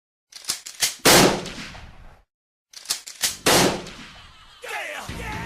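Two gunshots about two seconds apart, each a loud sharp bang that dies away over about a second and each preceded by a few quick clicks. Music begins near the end.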